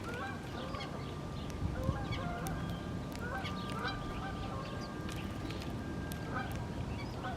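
A flock of geese honking, many short calls overlapping one another without pause.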